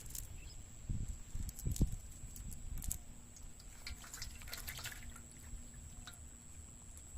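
Water dripping and splashing in small scattered bursts, with a few low thumps in the first two seconds.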